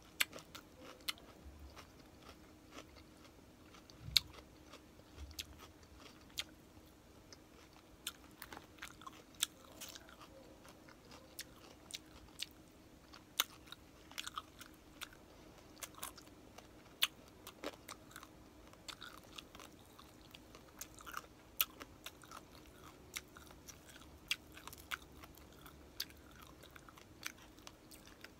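Close-up mouth sounds of a person eating crispy pata, deep-fried pork leg: steady chewing with many sharp, irregular crunches and crackles of the crisp skin.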